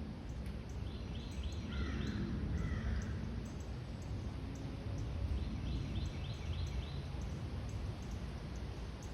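A bird calling: two quick runs of about five short, high notes, a few seconds apart, with a lower call along with the first run. A steady low rumble of background noise runs underneath.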